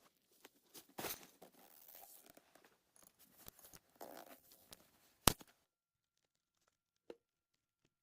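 Irregular rustling, crinkling and crunching handling noises, with a sharp click about five seconds in, after which it goes almost silent.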